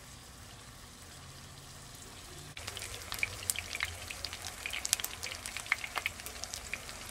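Chicken breast frying in hot olive oil in a pan, sizzling with irregular crackling pops. The sizzle sets in abruptly about two and a half seconds in, after only a faint hiss.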